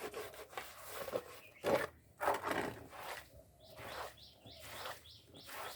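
Rubbing and scrubbing noises as paint stripper is rinsed off a plastic side panel by hand, with a couple of louder rough scrapes in the first half. Small birds chirp repeatedly in the background from about halfway.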